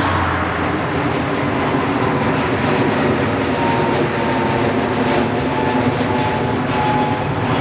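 Airbus A320neo's CFM LEAP-1A jet engines at takeoff power during departure: a loud, steady jet roar with a faint whine that slowly drops in pitch as the aircraft passes.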